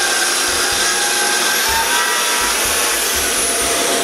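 Power saw ripping a pine plank at a 45-degree bevel: a steady, loud cutting noise with a high whine from the blade, whose pitch sags slightly in the second half.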